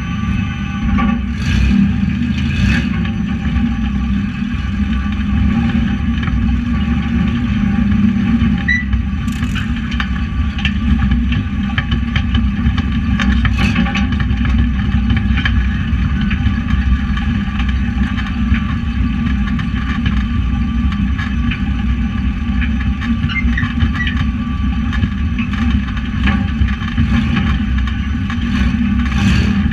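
Tuff truck's engine running loud and steady, heard from inside the cab, with a few sharp knocks and rattles from the truck.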